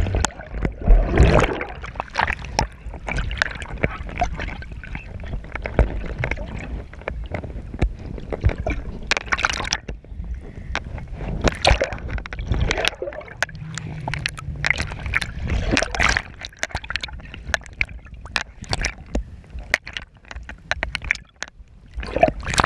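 Water splashing and sloshing close to the camera, irregular and choppy, with many sharp splashes.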